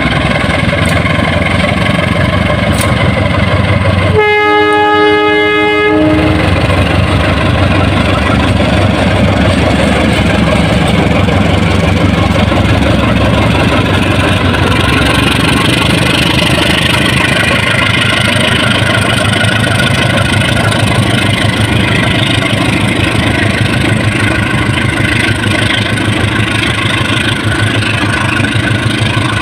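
KAI CC201 diesel-electric locomotive passing close with its passenger train, engine running loudly. Its horn sounds once, a chord of several notes lasting about two seconds, about four seconds in. In the second half the coaches roll past with a rising clatter of wheels on rails.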